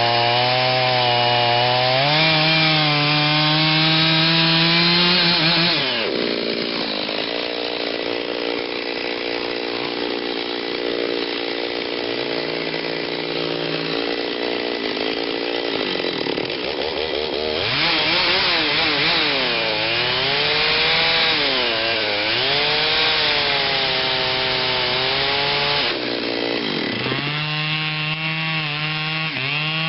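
Stihl 039 two-stroke chainsaw with a modified, opened-up muffler running under load while cutting into a large oak trunk. Its engine pitch wavers up and down as the chain bites into the wood. The pitch sags deeply about six seconds in and again near the end.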